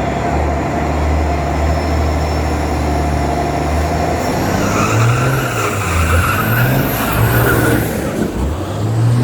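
Diesel racing trucks' engines running steadily at the line, then revving up hard as they accelerate down the drag strip, with a high rising whistle over the engines about five seconds in.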